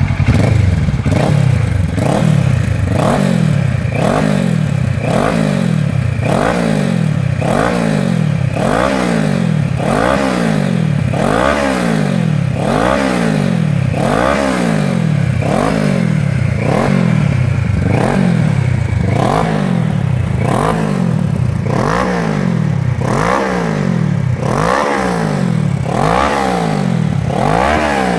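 Kawasaki 650 parallel-twin engine revved through a de-cat stainless aftermarket exhaust in quick throttle blips, about one a second, each rising in pitch and dropping straight back.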